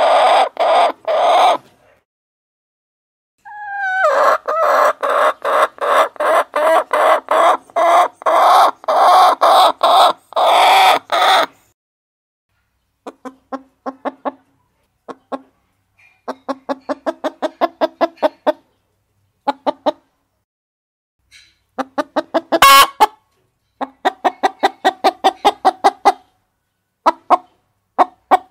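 Hens clucking in fast runs of short notes, about four a second, in several bouts separated by pauses.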